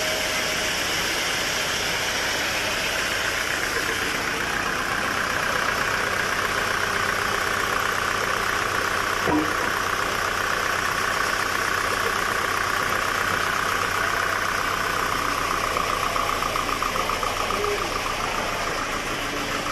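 Sawmill machinery running steadily, with a single sharp click about nine seconds in and a fluttering pulse near the end.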